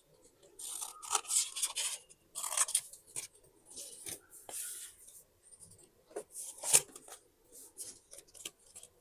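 Paper being handled in a series of short rustling, crinkling bursts, with one sharp click about three-quarters of the way through.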